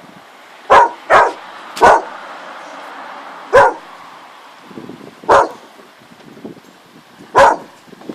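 A dog barking: six loud, single barks, three in quick succession near the start, then three more spaced a couple of seconds apart.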